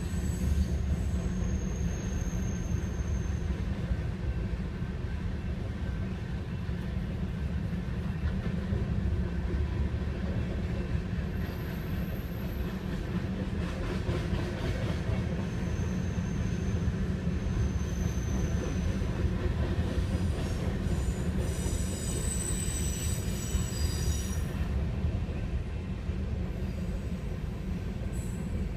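Freight train of covered grain hopper cars rolling steadily past at a level crossing: a continuous low rumble of wheels on rail. High-pitched wheel squeals come in briefly a couple of seconds in, again around the middle, and as a cluster of several tones a few seconds before the end.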